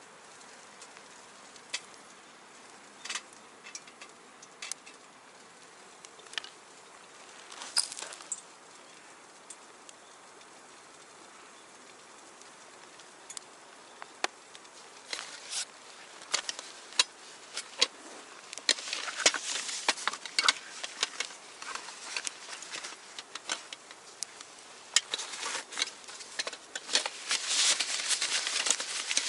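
Small wood fire crackling in a stainless steel box stove: sparse sharp pops over a steady hiss, growing into dense crackling from about two-thirds of the way in as the fire takes hold.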